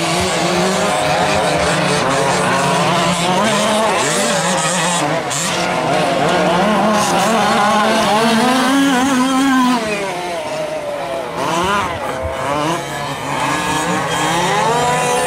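Several 5th-scale RC trucks' small two-stroke gas engines racing, each revving up and easing off in turn so the overlapping engine notes rise and fall. The engines are a little quieter for a few seconds past the middle.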